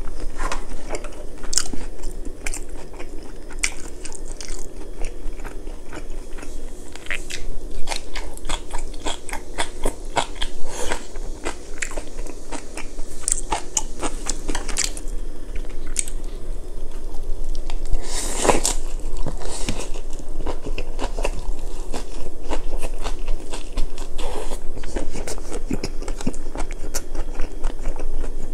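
Close-miked chewing and biting: wet mouth smacks and crunches of a man eating spicy stir-fried pork with kimchi and rice, going on continuously with one louder smack about eighteen seconds in.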